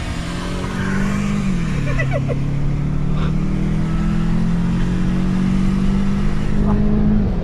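Car engine at full-throttle acceleration in a roll race, heard from inside the cabin. Its pitch drops at an upshift about a second and a half in, climbs steadily through the next gear, and drops again near the end.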